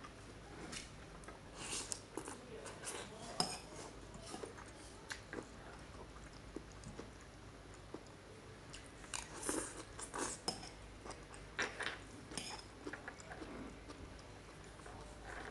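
Close-up eating sounds: a person chewing with wet mouth smacks, and small clicks of a metal spoon on a china bowl. The chewing comes in two busy spells, about two seconds in and again around ten seconds in.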